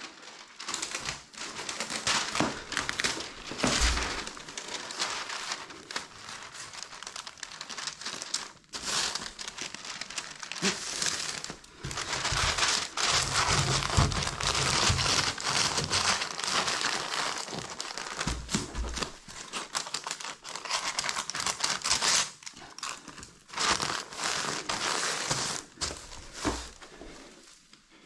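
Masking paper crinkling and rustling as it is pulled out and handled, with scattered crackles and tearing, loudest for several seconds around the middle.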